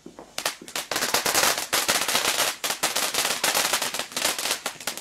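Firework going off in a rapid, dense string of sharp cracks and pops that starts about a third of a second in and thins out near the end.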